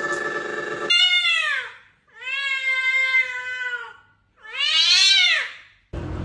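A domestic cat giving three long, drawn-out meows, each rising and then falling in pitch, the middle one the longest. Before them, a steady tone cuts off about a second in.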